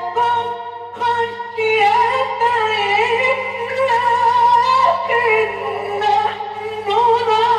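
A male Quran reciter's voice in melodic tajweed recitation, long ornamented notes held and gliding up and down, over a steady low hum from the old recording.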